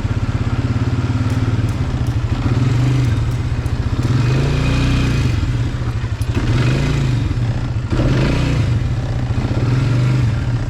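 Small engine idling steadily, its pitch wavering up and down a little.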